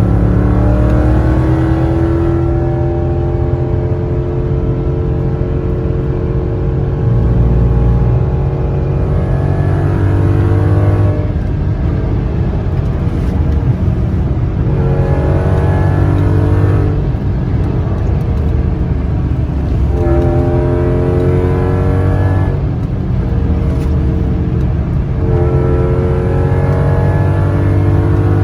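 2002 Audi S6 Avant's 4.2-litre naturally aspirated V8 through a catless 3-inch true dual exhaust with a Magnaflow muffler, loud under hard throttle. The revs climb in one long pull, then in three shorter rises, the pitch dropping back between each.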